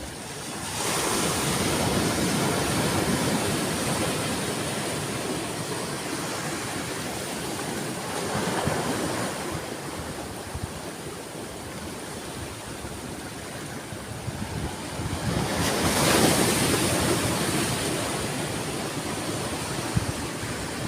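Sea waves breaking on a shore: a rushing surf that swells about a second in, again more softly near the middle, and loudest about three-quarters of the way through, each time slowly ebbing.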